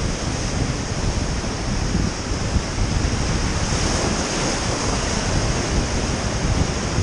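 River whitewater rapids rushing steadily around a raft, with wind buffeting the microphone.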